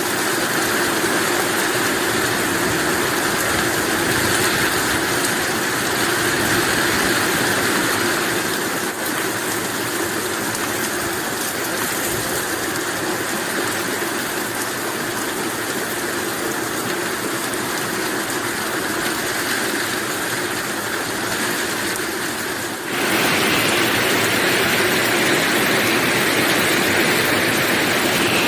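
Heavy rain falling steadily, a continuous dense hiss, turning abruptly louder a few seconds before the end.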